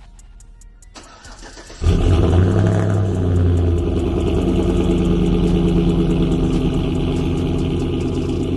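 Cold start of a high-mileage truck's engine through a 3-inch Dynamax muffler with no catalytic converters: it catches suddenly about two seconds in, flares up high and loud, then settles to a steady idle after a couple of seconds.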